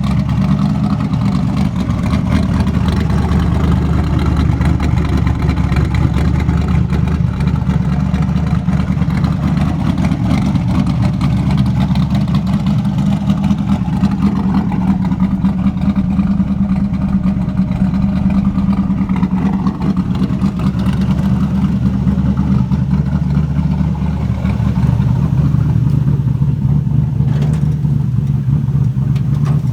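LQ4 6.0-litre V8 running at idle on a cold start, its aggressive Texas Speed Tsunami camshaft giving it a choppy, lopey note. The idle shifts slightly lower and a touch louder about 25 seconds in.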